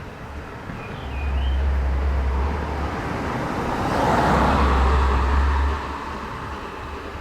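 A train drawing near: a swelling rumble and hiss that is loudest about two-thirds of the way in, with gusts of wind on the microphone and a brief bird chirp near the start.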